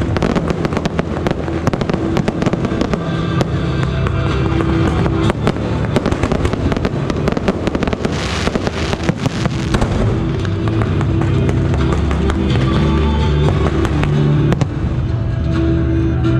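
Aerial fireworks going off in quick succession, a dense run of bangs and crackles with a louder burst about eight seconds in, over background music.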